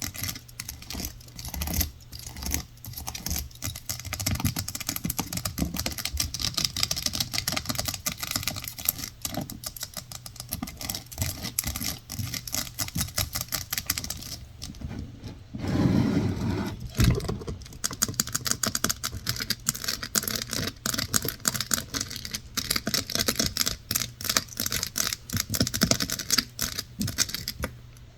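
Fast ASMR fingernail tapping and scratching on hard objects, a dense run of quick clicks. Midway there is a brief, fuller, lower-sounding stretch that ends in a sharper knock.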